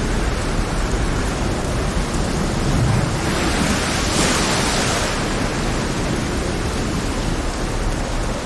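Heavy rain over a rough sea, a dense steady hiss of rain and surf, swelling into a louder surge of hiss about three to five seconds in.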